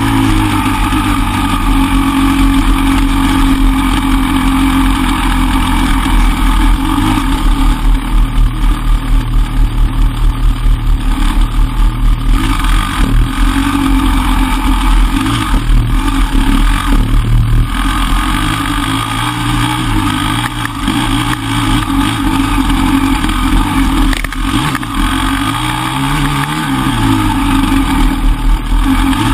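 Enduro motorcycle engine running as the bike is ridden along a trail, its note rising and falling with the throttle, with a choppy, pulsing stretch about a third of the way in.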